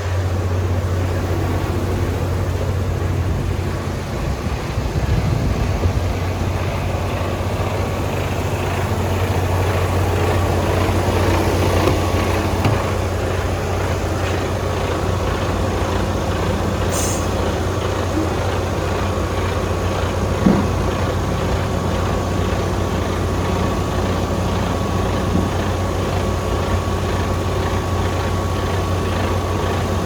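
Mercedes-Benz Arocs 2643 truck's six-cylinder diesel engine idling steadily. Just past the middle there is a short hiss, and a few seconds later a single click.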